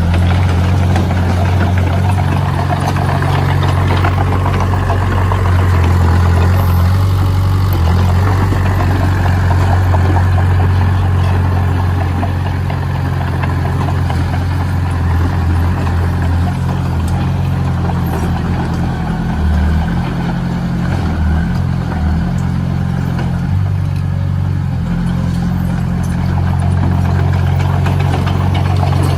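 Engine of a heavy construction machine running steadily with a low drone, its pitch wavering a little in the middle.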